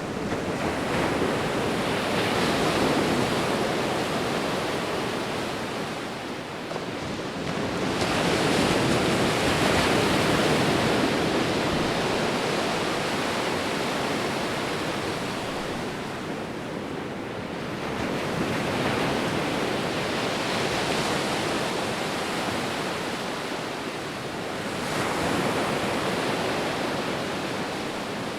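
Sea waves breaking and washing up a shore, a steady rushing that swells with each wave about every eight to ten seconds and then ebbs.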